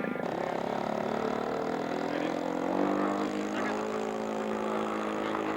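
Radio-controlled model airplane engine running, its pitch rising over a second or two and then holding steady.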